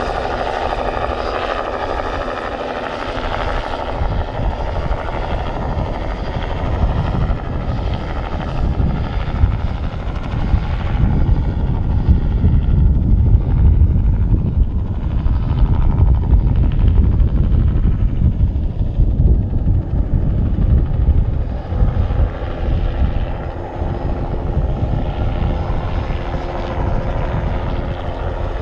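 Bell 206B-3 JetRanger III helicopter flying a spraying pass: turbine whine and the low beat of its two-bladed main rotor, growing louder toward the middle as it comes close, then easing off near the end.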